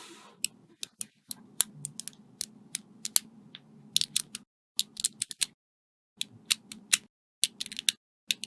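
Small magnetic balls snapping together as they are placed, an irregular series of sharp clicks, several in quick succession, with short pauses between groups.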